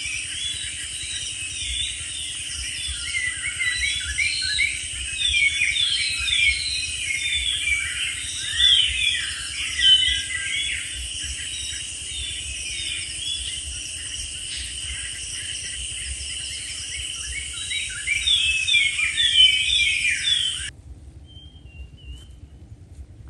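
Many birds chirping and calling in quick, overlapping notes over a steady high-pitched buzz. Everything stops abruptly near the end, leaving only a faint low rumble.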